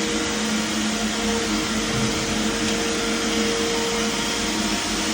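Steady machinery drone: an even rushing noise with a constant low hum, unchanging throughout, with no single strokes or knocks.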